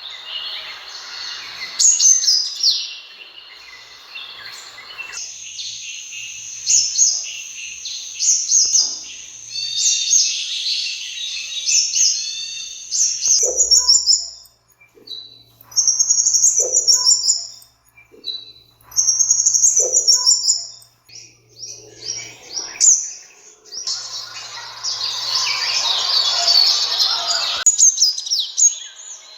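Sunbird calls: high, thin chirps and quick trills. The calls run thick and continuous for the first few seconds and again near the end, with separate short trilling phrases and gaps in between.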